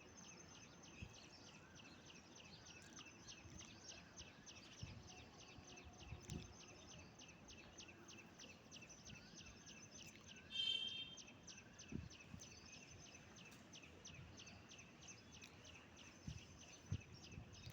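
Faint outdoor ambience with a steady, rapid high-pitched chirping of roughly five pulses a second. A short, louder bird call comes about ten seconds in, and a few soft low thumps are heard.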